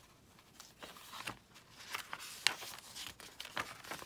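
Paper pages of a thick, stuffed junk journal being turned and handled: a run of short rustles and crinkles, with the sharpest page flick about two and a half seconds in.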